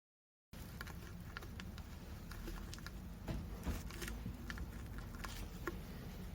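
Light scattered clicks, taps and small scrapes of hands handling small tools and parts, over a faint low hum; the sound cuts in after a brief dead gap at the start.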